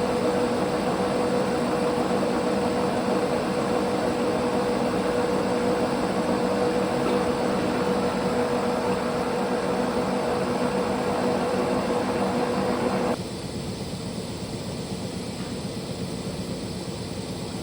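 Metal lathe running through a very shallow finishing cut on a metal control rod, a steady machine hum with a steady whine in it. About thirteen seconds in the whine stops and the sound drops to a quieter steady hum.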